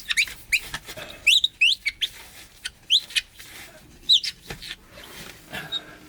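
Cleaning cloth squeaking on windshield glass while wiping off adhesive residue with alcohol: a series of short, rising squeaks, about eight of them.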